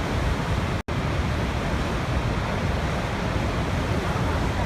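Steady rushing water, even and unbroken, with a heavy low rumble; it cuts out for an instant a little under a second in.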